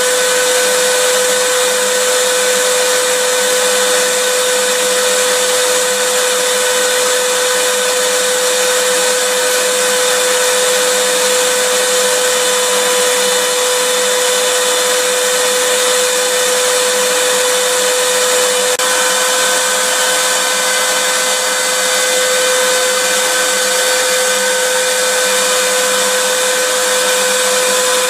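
Vacuum cleaner running steadily: a continuous rushing noise with a steady whine from the motor. The whine's pitch steps up slightly about two-thirds of the way through.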